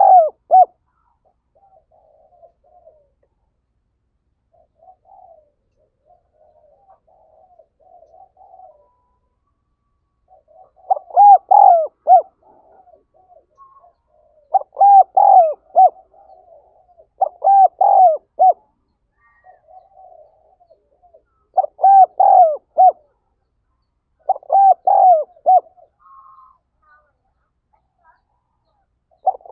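Spotted dove cooing: soft, faint coos at first, then from about a third of the way in a loud phrase of several short coos repeated about every three seconds.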